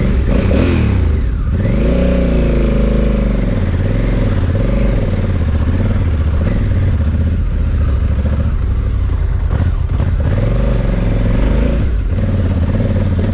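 Adventure motorcycle's parallel-twin engine being ridden, revving up and easing off several times as the rider works the throttle.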